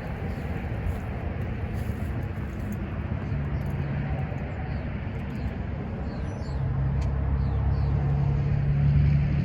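A car engine running close by, its steady low hum growing louder over the last few seconds, with faint bird chirps above it.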